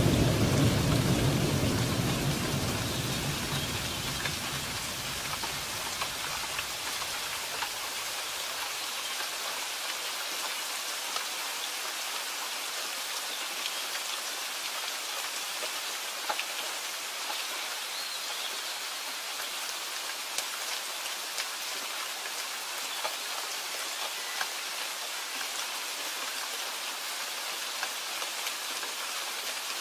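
Steady rain falling, with single drops ticking now and then. A low rumble of thunder dies away over the first few seconds.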